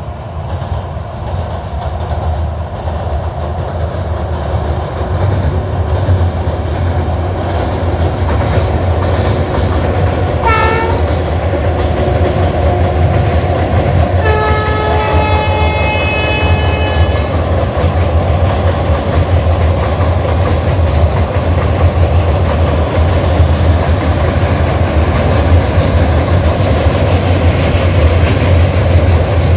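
Diesel-hauled passenger train crossing a steel truss rail bridge: a deep rumble that grows louder over the first several seconds and then holds steady. The locomotive's horn sounds once briefly about ten seconds in, then again for about three seconds a few seconds later.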